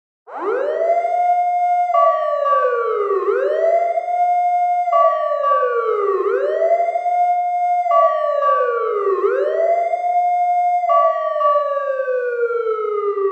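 Fire truck siren wailing. It starts suddenly, climbs quickly in pitch, holds, then falls, about every three seconds, with a steady higher tone sounding in some stretches. Near the end it winds down in one long, slow fall.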